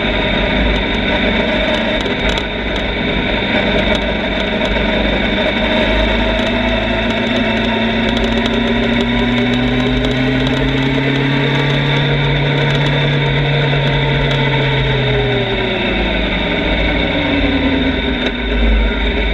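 Motorcycle engine heard on the move, its pitch climbing slowly as it pulls up through the revs, then dropping off about two-thirds of the way through as the throttle eases. Heavy wind rumble on the microphone runs underneath.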